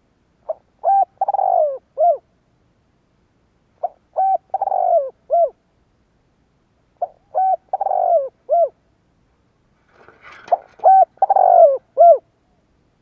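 Spotted dove cooing: four phrases about three seconds apart, each a short opening note followed by a few hollow coos with a longer falling note in the middle. A faint rustle comes just before the last phrase.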